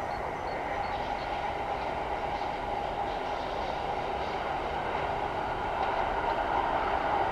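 ChS7 electric locomotive hauling a passenger train as it approaches: steady running noise of the locomotive and wheels on the rails, growing louder near the end.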